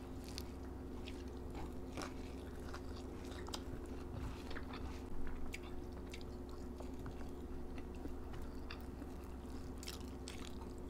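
Close-up eating sounds: two people chewing mouthfuls of rice and curry, with scattered small wet clicks, smacks and crunches. A faint steady hum runs underneath.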